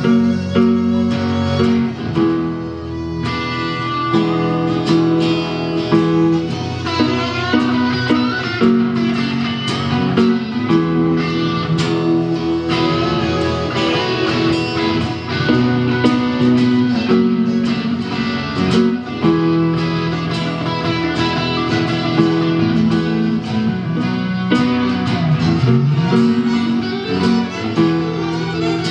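Live band playing an instrumental passage between sung verses, with plucked guitar out front over held notes and a steady beat.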